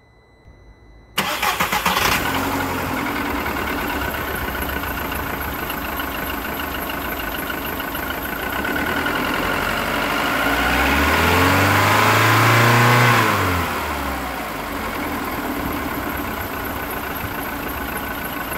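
2001 Volkswagen Golf IV's 1.4 16V four-cylinder petrol engine starting from cold: a brief crank about a second in, catching and settling to idle. About ten seconds in it is revved once, the pitch rising and falling back over some three seconds, then it idles again, a little unevenly, which the owner puts down to the engine not yet being warm.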